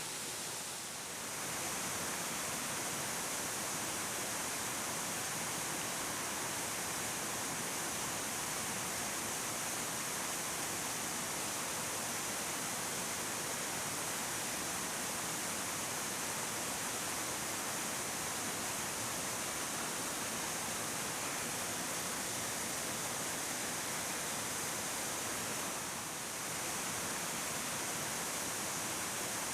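A 30 m waterfall with a heavy flow pouring steadily: a constant rushing hiss of falling water, dipping briefly about a second in and again near the end.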